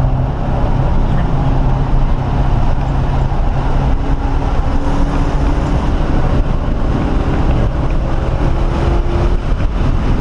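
1997 SVT Cobra Mustang's 4.6-litre DOHC V8 running hard on track, heard from inside the cabin over road noise, its note climbing gradually in the second half.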